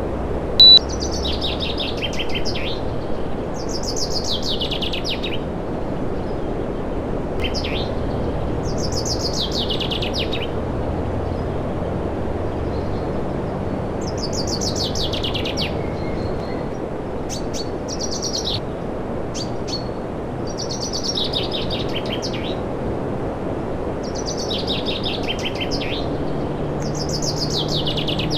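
Birds chirping over and over, each call a buzzy trill falling in pitch, over a steady whoosh of running machinery or air flow. A single short, sharp beep is heard about a second in.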